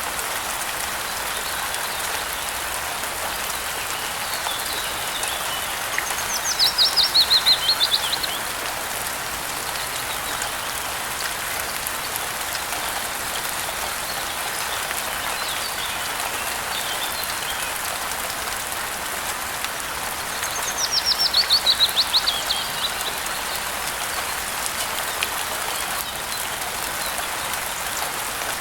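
Steady rain hiss, with a songbird singing a fast trill that slides down in pitch, each lasting about a second and a half. It sings once about a quarter of the way in and again about three quarters of the way in, with faint chirps between.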